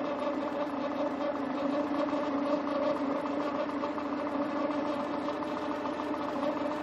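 Peugeot 206 1.4i petrol engine idling steadily with a strange whistle over its running, like a turbo, which the owner cannot explain: belt tension looks good and the tensioner pulley and water pump are new.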